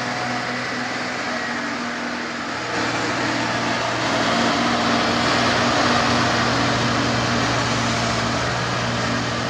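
Truck diesel engine running steadily with a low hum, growing louder and fuller about three seconds in as it works harder.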